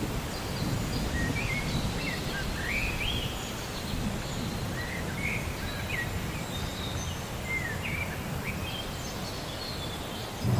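Steady rain ambience with a low rumbling wash, over which birds call in a run of short rising and falling chirps. A louder rumble of thunder breaks in at the very end.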